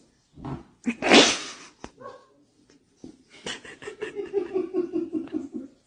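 A pet animal making sounds: a loud breathy burst about a second in, then a quick pulsing run of about five or six pulses a second lasting around two seconds.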